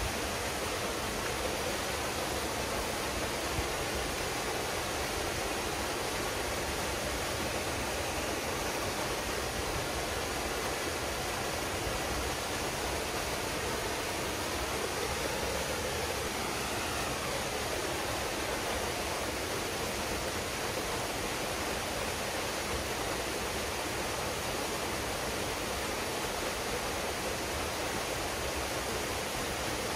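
Waterfall pouring into a pool, a steady, even rush of water.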